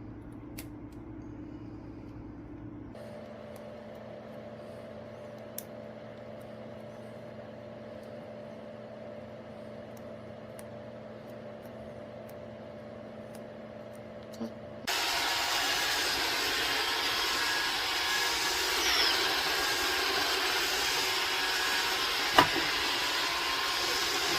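iRobot Roomba 692 robot vacuum running. A quiet steady hum jumps to a much louder steady whir about fifteen seconds in, with a sharp knock near the end.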